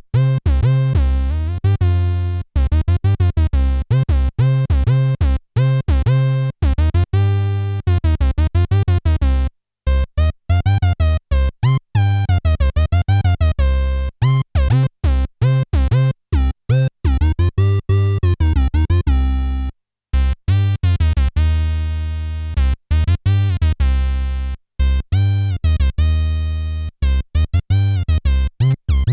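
Behringer K-2 analog monophonic synthesizer (an MS-20 clone) playing a fast run of short, low notes, recorded dry straight from its output. Partway through, the filter sweeps the tone brighter and darker over the notes.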